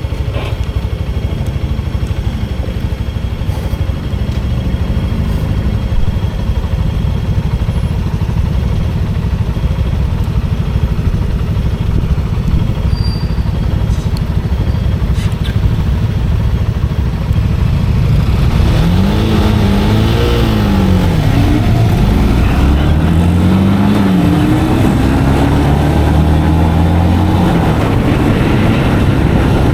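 Motorcycle engine running steadily, then, about two-thirds of the way in, its pitch rises and falls twice as the revs go up and down.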